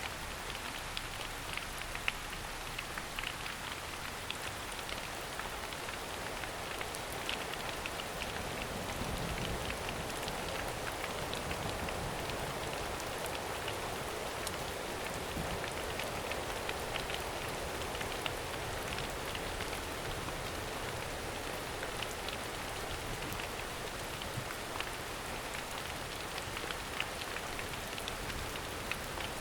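Steady rain falling in a forest, with many individual drops striking close by.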